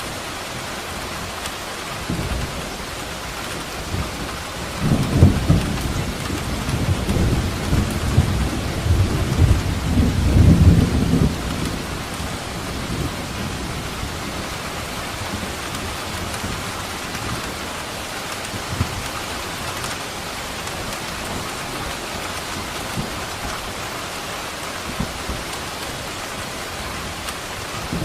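Steady heavy rain falling, with a roll of thunder rumbling up about five seconds in and fading out after about six seconds.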